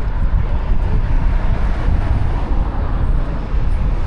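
Steady low rumble of city street ambience on a road bridge, strongest in the bass, with no distinct events.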